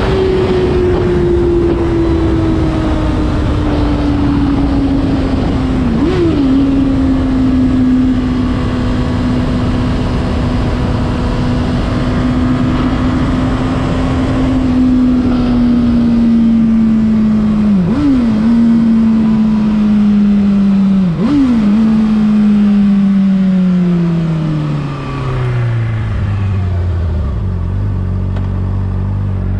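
Honda CBR600RR inline-four sport bike engine, its revs falling steadily as the bike slows. Three downshifts, about 6, 18 and 21 seconds in, each make a quick dip and jump in revs. Near the end the revs drop away to a low, steady rumble.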